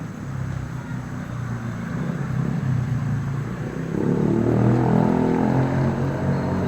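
A motor vehicle's engine running steadily, growing louder to a peak about five seconds in and then easing off, as it passes.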